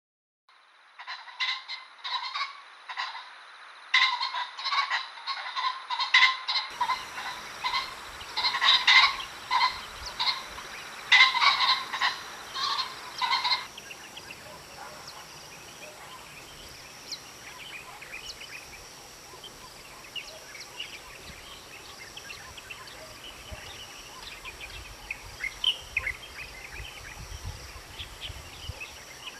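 Ring-necked pheasant calling: a run of harsh, repeated notes for about the first 13 seconds, then stopping, leaving faint chirps of small birds.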